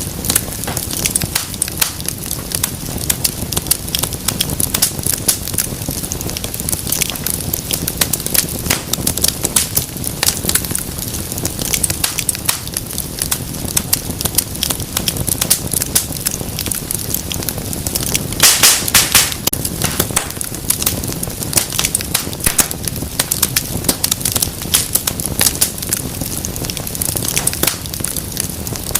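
Wood fire in a fireplace crackling and popping continuously, over a low steady rumble of flame. About two-thirds of the way through comes a short cluster of louder pops.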